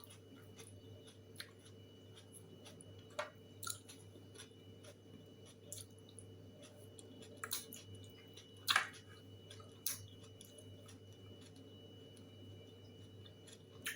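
A person chewing food quietly, with scattered small mouth clicks and smacks, the clearest about three and nine seconds in, over a faint steady hum.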